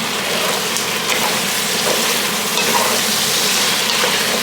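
Chicken pieces frying in hot oil in a pan for a chicken curry, sizzling steadily.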